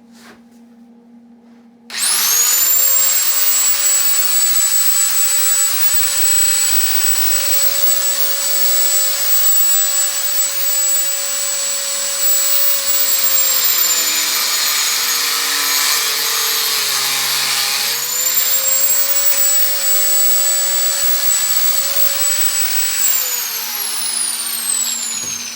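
Electric angle grinder switched on about two seconds in, spinning up to a loud, steady high whine as it works steel. Its pitch sags for a few seconds midway, then climbs back. Near the end it is switched off and winds down with a falling whine.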